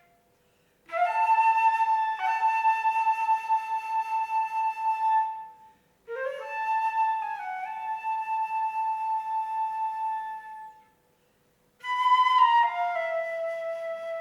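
Solo flute playing three slow phrases separated by short pauses, each opening with a few quick notes that lead into a long held tone that wavers slightly in loudness.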